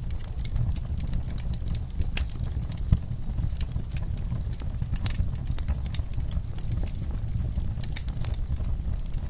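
Wood fire burning in a fireplace: a steady low rumble of flames with frequent irregular crackles and pops, one sharper pop about three seconds in.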